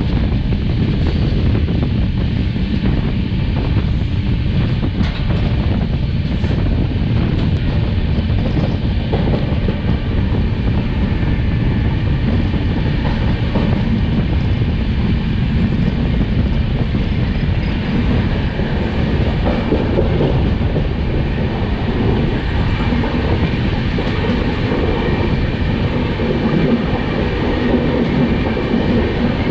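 Express passenger train running at speed, around 120 km/h: the steady noise of its wheels on the track heard from aboard a coach.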